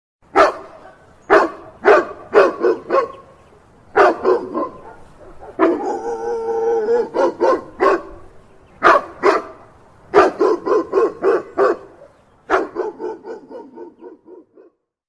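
Dog barking in volleys of quick, sharp barks, with a longer drawn-out howling call about six seconds in; the last volley of barks fades away.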